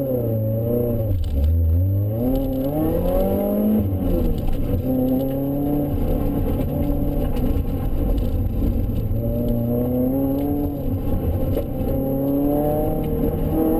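Supercharged Mazda MX-5's four-cylinder engine heard from inside the cabin under hard driving. Its revs climb and fall back about three times as the throttle is worked.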